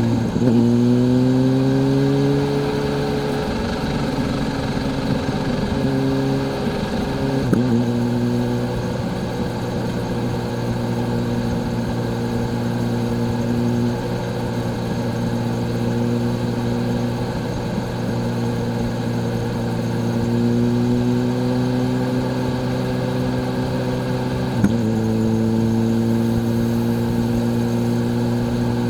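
Kawasaki Z H2's supercharged inline-four engine heard from the rider's seat while under way. The engine note climbs steadily and drops sharply three times, about half a second in, a third of the way through and near the end, as it is shifted up through the gears.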